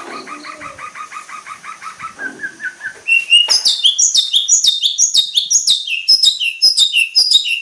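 Long-tailed shrike (cendet) song with mimicked fill-in calls, played as a training recording. It opens with a quick run of repeated notes. From about three seconds in it breaks into a loud, fast series of downward-sweeping chirps, several a second.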